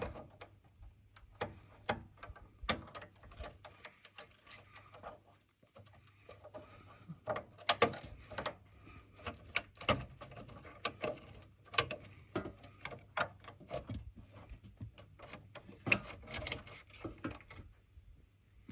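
Irregular sharp clicks and clinks of metal hand tools being handled: an Allen key and sockets picked up and tried on a hex bolt.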